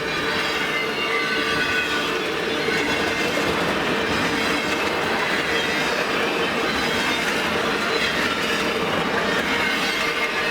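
Freight cars of a mixed manifest train rolling steadily past, a continuous rumble of wheels on rail with a steady high squeal and ringing from the wheels.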